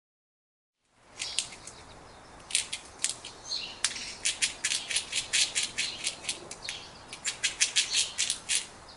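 Rapid, sharp, high chirping calls from a small animal, many in a second, starting about a second in.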